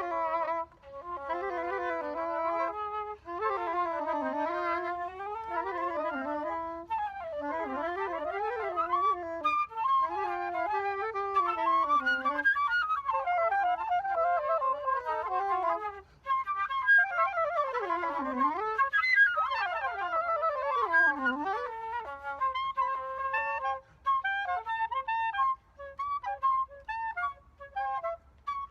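Improvised duet on flute-like wind instruments, the melodies sliding up and down in pitch and at times crossing each other; in the last few seconds the playing turns to short, separate notes.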